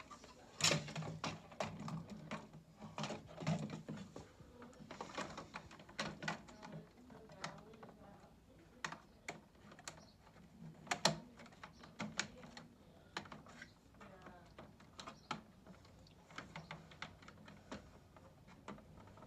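Irregular clicks, taps and knocks of plastic stairlift cover panels being handled and clipped into place, with the sharpest knocks about half a second in and about eleven seconds in.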